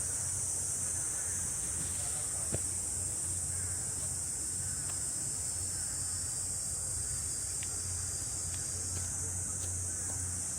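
A chorus of cicadas making a steady, unbroken high-pitched drone, with a few faint clicks.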